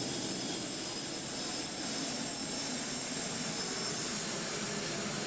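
A pulling tractor's engine running steadily, a dense noise with high, steady whine tones over it, of a turbine-like kind.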